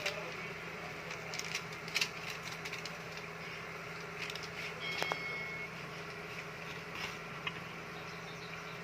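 Chicken cooking in a pan, with a steady background and scattered clicks and scrapes from a cooking utensil. A short metallic clink rings out about five seconds in.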